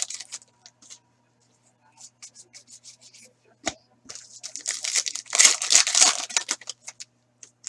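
Sports-card pack wrappers being torn open and crinkled, with one sharp tap partway through and a loud tearing rustle about four seconds in, and light crackling as the cards are handled.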